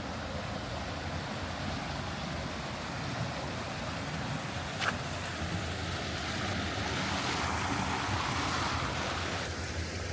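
Steady hiss of street traffic, swelling as a vehicle passes about seven to nine seconds in, with a single sharp click near five seconds.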